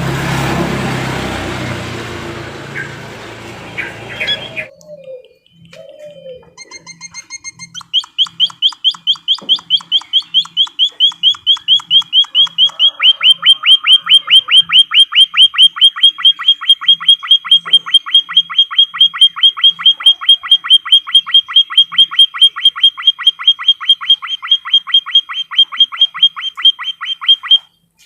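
Emprit kaji (white-headed munia) calling: a fast, even run of short, sharp rising chirps, about four or five a second, kept up for some twenty seconds and then breaking off abruptly. The first few seconds are a noisy jumble before the run begins.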